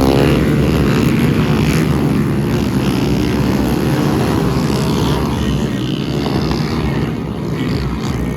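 Small four-stroke motorcycle engines of the Honda Pop 100/110 class running hard at high revs, a loud, continuous engine note.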